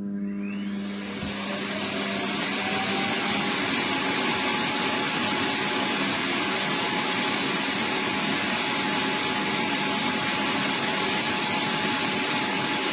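iRobot Roomba Plus 405 Combo's self-emptying base running its suction motor to empty the robot's dustbin: a loud, steady rush of air with a motor whine that rises over the first few seconds as it spins up, then holds one pitch.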